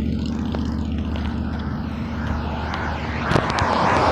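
Steady low engine drone, with a rush of noise swelling about three seconds in.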